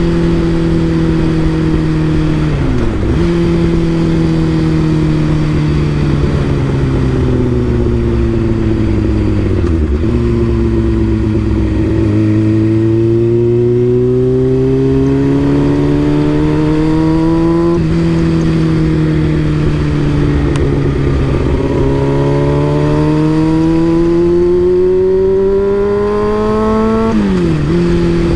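Motorcycle engine through an M4 aftermarket exhaust while riding. The pitch eases down as it slows, then climbs under acceleration, with sudden drops at gear changes several times.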